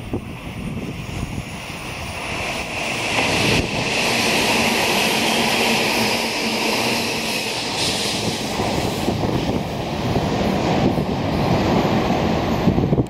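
Hanshin 8000-series electric train passing through the station at speed without stopping: a loud, steady rush of wheels on rail that swells about three seconds in and carries a high ringing tone, then cuts off suddenly at the end.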